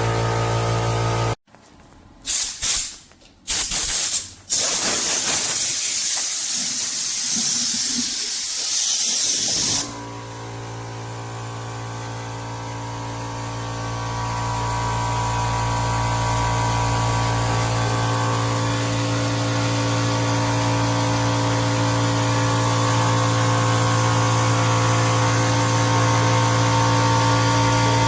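Oil-free air compressor running with a steady hum that stops about a second in. A few short blasts, then about six seconds of loud hissing compressed air. Then the compressor starts again and runs steadily, growing louder over the next several seconds.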